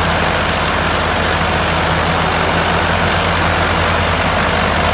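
Tractor diesel engine running steadily, a constant low drone with no change in pitch.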